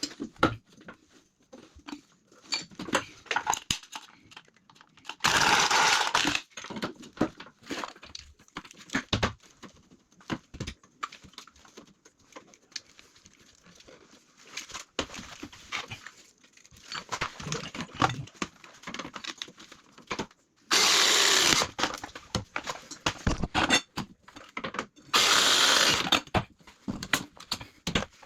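Clicks, knocks and handling noises of copper pipework and fittings being worked on, broken three times by a loud burst of hissing noise lasting about a second.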